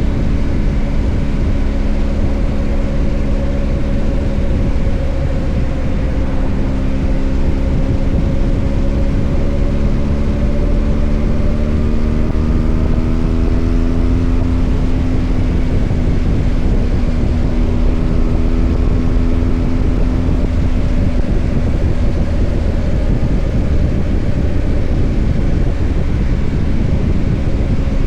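BMW R 1250 GS Adventure's boxer-twin engine running while riding, its pitch slowly rising and falling back a couple of times with the throttle, over heavy wind rumble on the microphone.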